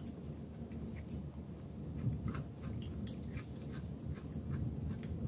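A person chewing a mouthful of mushroom soup, with scattered light clicks from a wooden spoon working in a glass bowl, over a steady low hum.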